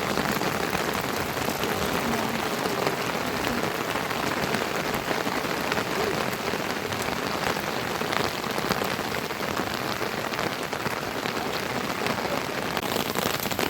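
Steady rain falling and pattering on surfaces, a dense hiss dotted with many small drop impacts.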